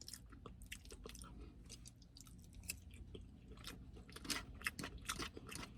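A person chewing food close to the microphone: soft, irregular crunching and wet mouth clicks, more frequent and a little louder in the second half.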